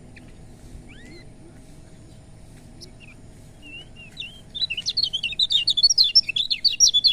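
Kecial kuning white-eye singing: a few scattered chirps and short whistles, then from about halfway a fast, loud run of high chirping song.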